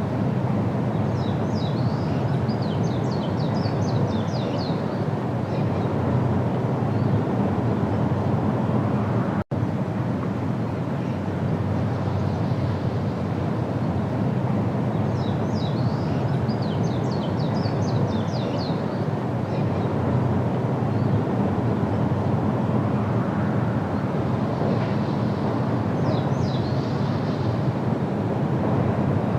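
A songbird singing three bouts of quick, repeated high notes over a steady low rumble of outdoor noise, which is the loudest sound throughout.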